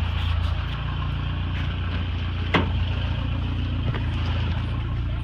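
Toyota 22R-TE turbocharged four-cylinder engine running steadily, with a single short click about halfway through.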